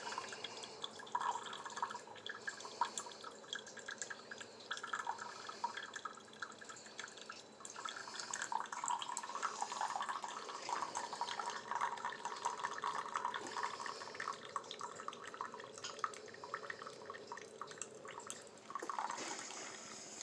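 Single-serve pod coffee maker brewing a cup: hot coffee dripping and trickling into the cup in an irregular patter, over a faint steady hum from the machine.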